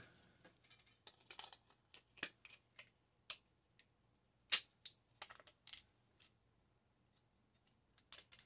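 Scattered sharp clicks and light taps of small plastic and metal parts being handled: a microwave's door switches being worked and pried apart, the loudest click about four and a half seconds in, then a quiet spell before a couple more near the end.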